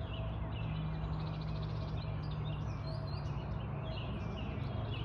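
Birds chirping repeatedly, over a steady low hum.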